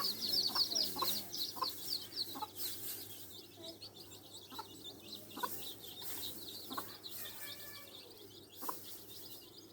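Newborn chicks peeping in a rapid high chatter, thick for the first couple of seconds and then thinning and fading. Through it a hen clucks at short intervals.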